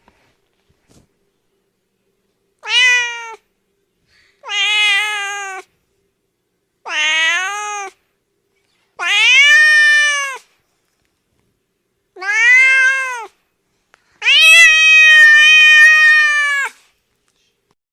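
A cat meowing six times, loud drawn-out meows with a few seconds between them, the last one the longest.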